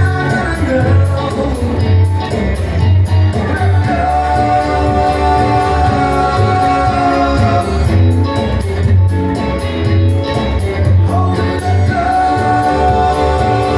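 A live rock band playing with singing over a pulsing bass line. Long held melody notes come in a few seconds in and again near the end.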